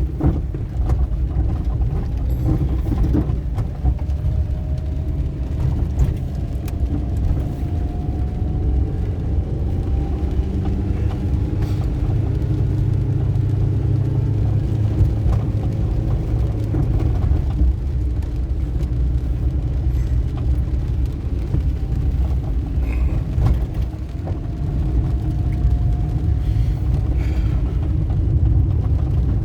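A car driving: steady low engine and road rumble, with the engine note rising slowly a couple of times as it speeds up.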